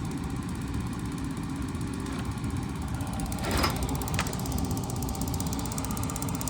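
Ryobi battery-powered propane heater running steadily, with a low rushing sound and a fast fine ticking, after a battery change. Two short clicks about three and a half and four seconds in.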